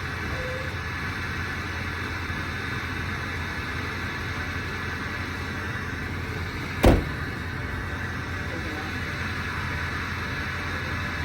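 Steady vehicle-like engine rumble with a single loud thump about seven seconds in.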